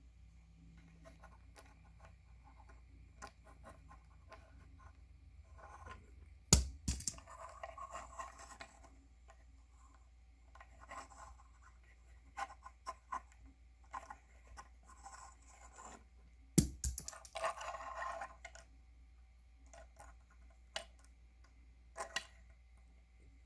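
Small diecast toy monster trucks being handled on a hard surface: scattered light clicks and scrapes, and two sharp knocks, one about six seconds in and one ten seconds later, each followed by a second or two of rattling scrape.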